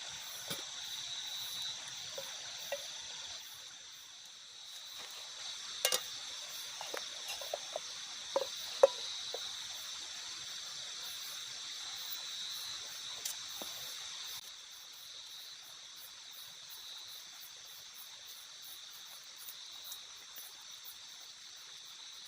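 Steady high-pitched chorus of night insects, with a few sharp clicks and knocks in the middle.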